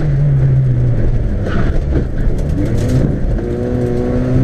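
Toyota Starlet rally car's four-cylinder engine heard from inside the cabin, pulling hard at a mostly steady pitch. A few short clicks come a little past halfway.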